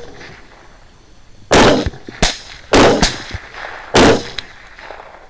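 Suppressed rifle shots at hogs: three loud reports about a second apart, starting about a second and a half in, with a smaller report and fainter cracks between them.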